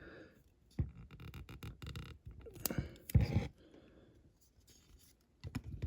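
Scattered clicks, taps and light scratching of small tools and tape being handled on a workbench, with a couple of louder knocks around three seconds in.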